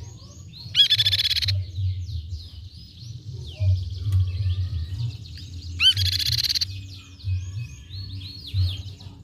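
Crescent-chested babbler (tepus pipi perak) calling: a stream of quick high chirps, broken twice by a louder buzzy trill, about a second in and again about six seconds in. A low rumble runs underneath.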